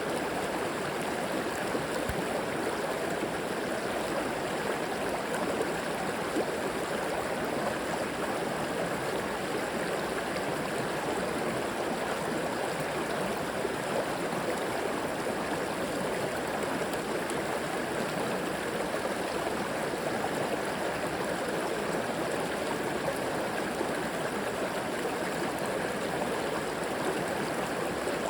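River water flowing steadily over rocks, an even rushing with a little gurgling.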